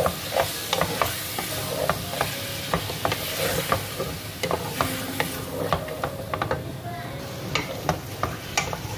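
Chicken pieces and chopped tomatoes sizzling in hot oil in a metal pot while a spatula stirs them, scraping and knocking against the pan at irregular moments.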